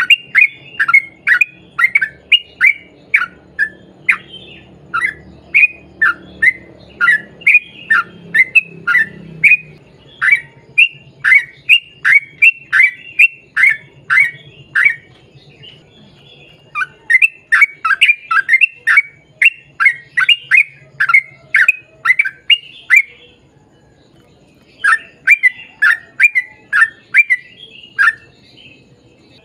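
Yellow-vented bulbul (trucukan) calling in long, fast strings of short falling notes, about two a second. The strings come in three bouts, the first the longest, with short breaks between them.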